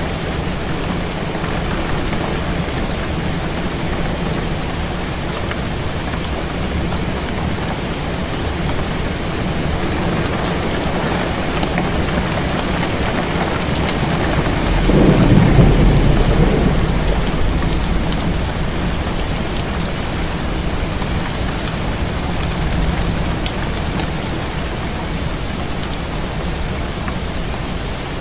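Heavy rain falling steadily on a window. About halfway through, a low rumble of thunder swells up suddenly, is the loudest sound, and fades away over a few seconds.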